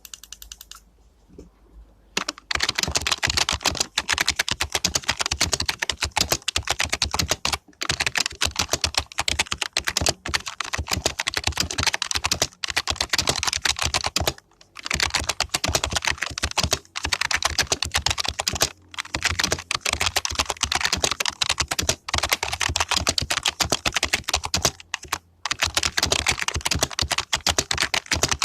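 Fast typing on a Mitsumi KFK-EA4XT rubber-dome membrane keyboard: a dense stream of key clacks that starts about two seconds in and breaks off briefly a few times.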